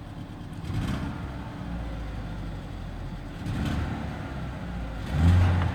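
2013 Ford Escape 1.6 L turbocharged direct-injection engine idling roughly, with an uneven chopping from a misfire and the puffing of exhaust and muffler leaks. Several louder uneven swells break the low rumble, the strongest near the end.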